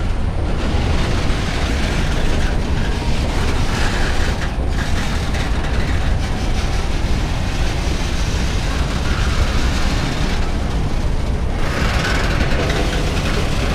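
Freight train boxcars rolling past close by: a steady, loud rumble of steel wheels on the rails.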